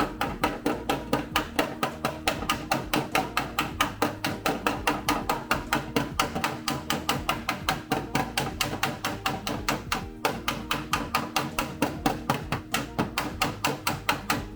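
Hammer striking sheet-steel car body panel work in a fast, even series, about five blows a second, with a short break about ten seconds in. Background music plays underneath.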